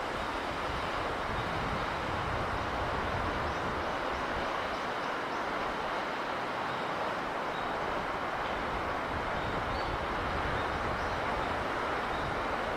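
Steady rushing sea breeze and surf, an even wash of noise, with a few faint high chirps now and then.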